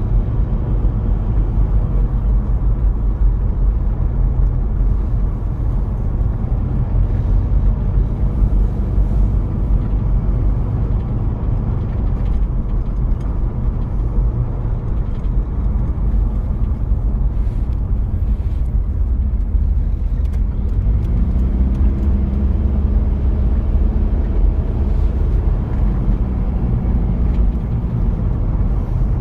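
1993 Toyota Prado's diesel engine running under way with steady road rumble. The engine note rises about two-thirds of the way through, holds, then eases off again near the end.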